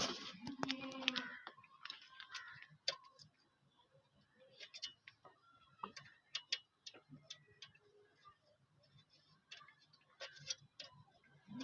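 Irregular light clicks and taps of hand tools and metal parts being handled, as when fitting a new tractor battery and its terminals.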